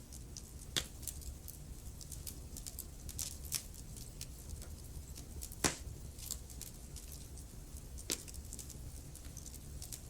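Wood fire burning in a fireplace: a low steady rumble with frequent small crackles and a few louder sharp pops, the loudest a little past the middle.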